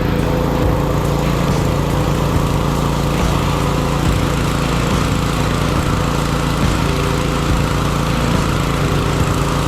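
Gas pressure washer running steadily, its small engine humming under the hiss of the high-pressure water spray.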